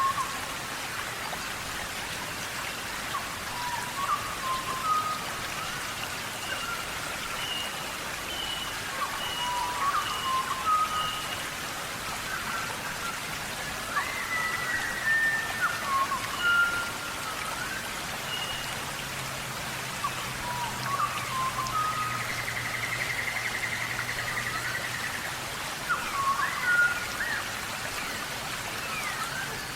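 Several wild birds calling in a forest, with short whistled and chirped notes overlapping throughout, over a steady background hiss. About two-thirds of the way through, one bird gives a rapid trill lasting a few seconds.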